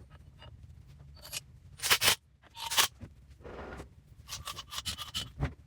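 Irregular sharp clicks and short scrapes of metal parts being handled and worked, with the loudest pair of hits about two seconds in and a quicker run of small clicks near the end.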